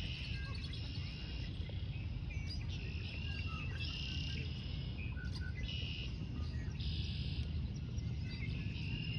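Repeated high buzzing trills, each about a second long and coming again and again, over a steady low rumble.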